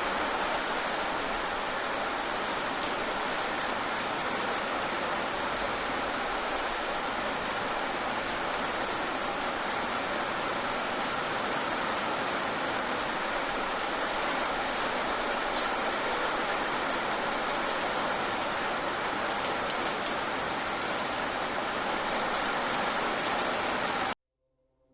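Steady rain falling, with the patter of individual drops; it cuts off abruptly near the end.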